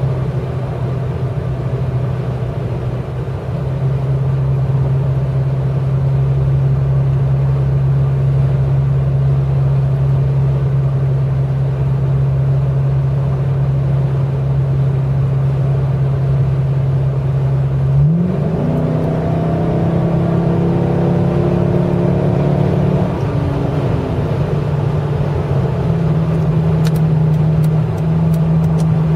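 Dodge Charger R/T's 5.7-litre Hemi V8 through glasspack mufflers, heard from inside the cabin at highway cruise: a steady low exhaust drone. About two-thirds of the way through, the note steps up and grows fuller for several seconds, then settles back into a steady drone.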